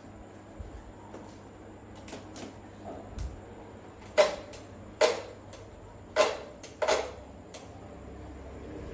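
Four sharp knocks or clacks, about a second apart, after some faint clicking.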